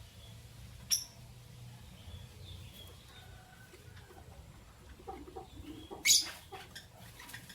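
Lovebirds calling: one short, sharp chirp about a second in, soft small calls, and a loud shrill chirp about six seconds in.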